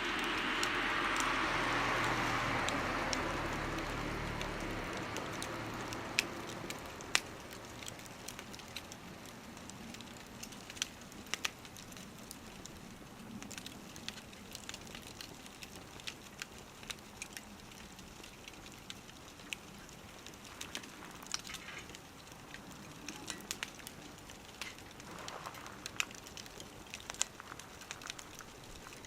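Wood fire burning in a small wood stove, crackling with irregular sharp pops. A louder passing-vehicle rumble fades away over the first several seconds.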